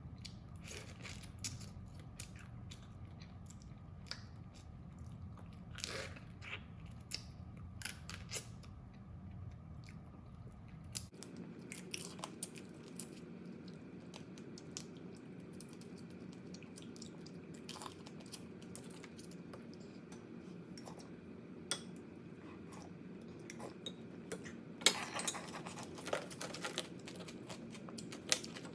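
A person eating crab close to the microphone: chewing, with scattered sharp clicks and crunches of shell being bitten and cracked, and a cluster of louder cracks near the end. A steady low background hum runs underneath.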